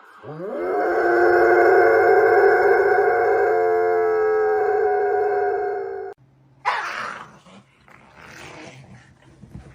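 A dog howling one long, nearly steady note that swoops into pitch at the start and cuts off sharply after about six seconds. A brief high-pitched cry follows soon after.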